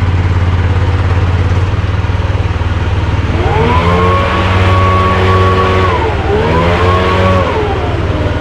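Mini excavator running with a steady low engine hum. About three seconds in, a pitched machine whine rises, holds for a couple of seconds and falls, then does the same again more briefly.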